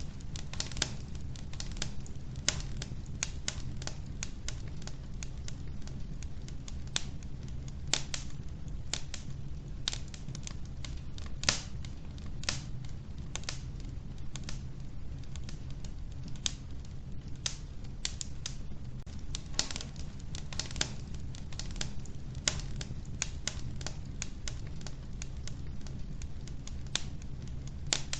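Wood fire burning in an old wood-burning stove: logs crackling with frequent irregular sharp pops over a low, steady rumble of the flames.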